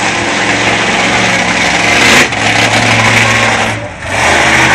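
Monster truck engine running loud at high revs, with a short drop-off about two seconds in and a deeper dip near the end before it picks up again.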